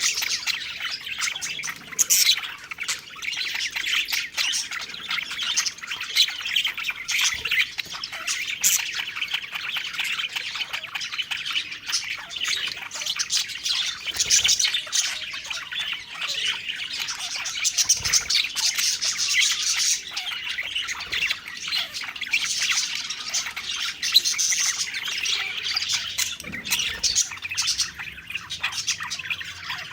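A flock of budgerigars chattering: continuous overlapping chirps, warbles and squawks with no pause.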